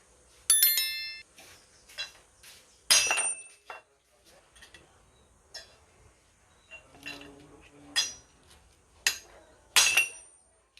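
Hammer blows on a socket driving the old bearing out of a car AC compressor pulley: about nine sharp metallic strikes at uneven intervals, the first ringing clearly.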